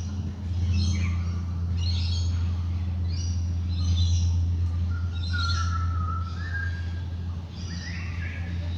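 Dawn chorus of wild birds: repeated short chirping phrases about once a second, with a clear whistled note about halfway through, over a loud, steady low drone from a soft singing bowl.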